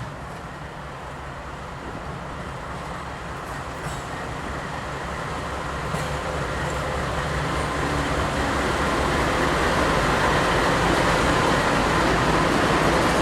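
Diesel freight train approaching, the locomotive's engine hum and rail noise growing steadily louder.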